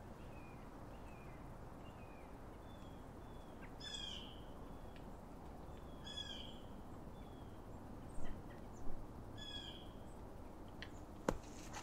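Birds calling in a winter woodland: a run of short, high chirps, with a louder, harsher call about four, six and nine and a half seconds in, over a steady low outdoor background noise. A few brief knocks come near the end.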